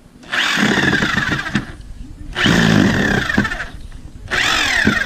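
Cordless drill driving a screw into a wooden 2x2, run in three bursts of about a second each, its motor pitch sagging and rising as the screw bites.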